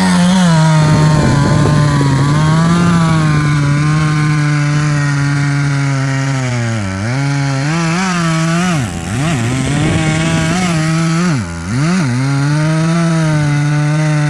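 Chainsaw running at high revs with a steady, high engine note. Its pitch and loudness dip sharply and recover three times, about halfway through, around two-thirds of the way, and again near the end.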